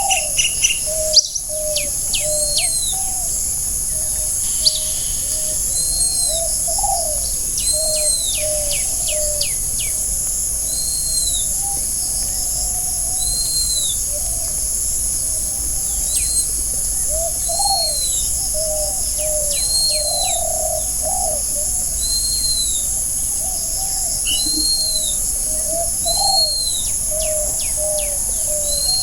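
Forest birds singing: one bird repeats a short arched whistle about every one and a half to two seconds, while others give quick falling notes and lower, softer calls underneath. A steady high hiss runs behind the birdsong.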